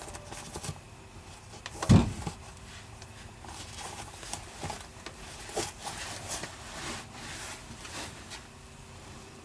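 Scattered light knocks and rustling of gear being handled and moved about in a small enclosed space, with one louder thump about two seconds in.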